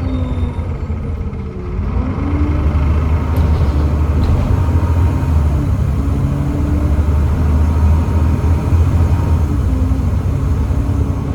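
Volvo B7TL double-decker bus's Volvo D7C 7.3-litre diesel engine running under way. Its note falls for about the first two seconds, then rises again and climbs in steps as the bus picks up speed.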